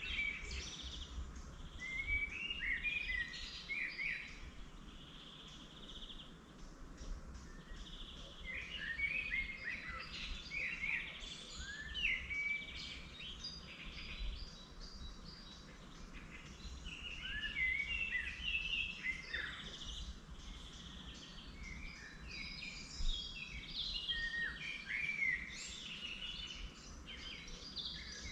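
Several wild songbirds singing in spring, a busy chorus of quick chirps and warbling phrases, over a faint low rumble of outdoor background noise.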